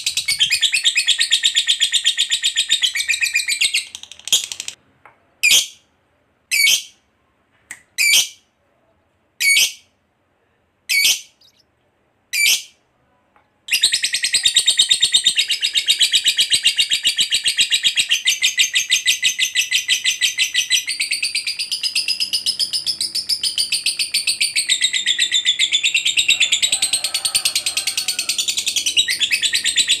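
Lovebird's ngekek, a long, fast chattering trill. About four seconds in it breaks into half a dozen short chirps spaced about a second and a half apart, then a long unbroken trill resumes.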